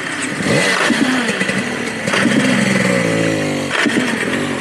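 Dirt bike engine revving up and down, its pitch gliding down over a second or so before it drops away near the end.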